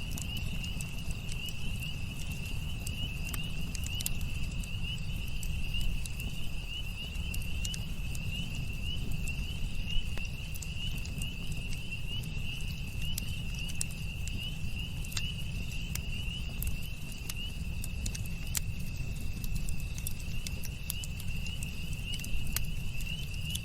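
Campfire crackling with scattered sharp pops over a low rumble, with a steady, high, pulsing chirp of crickets throughout.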